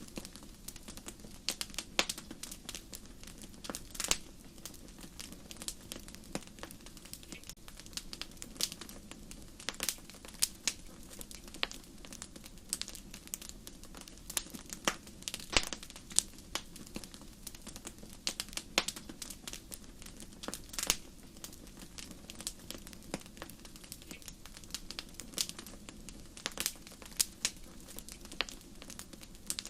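Wood fire crackling in a fireplace: frequent sharp, irregular pops and snaps over a low, steady rumble of flames.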